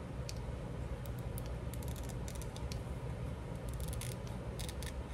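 Scissors snipping through paper in a few short runs of quick cuts, trimming the white edge away from a paper sticker, over a steady low hum.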